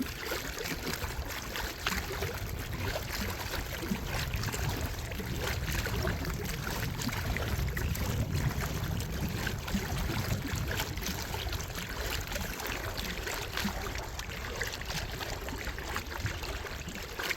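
Water sloshing and trickling around a small paddled boat, with many small scattered splashes and ticks over a steady low rumble.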